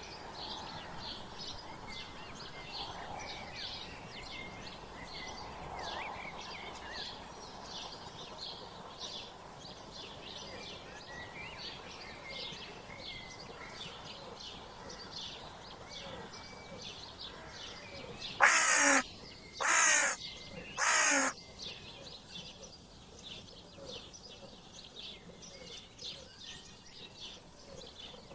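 Small birds chirping steadily, and a crow cawing three times, loud and harsh, about two thirds of the way through.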